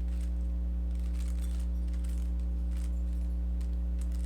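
Faint, scattered plastic clicks of a Rubik's cube being turned through an algorithm, over a steady low electrical hum.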